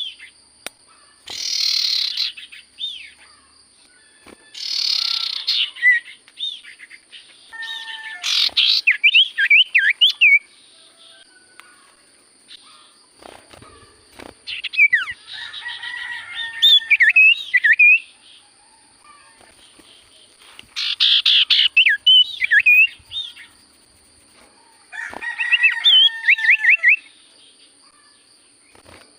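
Cipoh (common iora) singing in bursts of quick whistled and trilled phrases, about six song bouts with pauses of a few seconds between them.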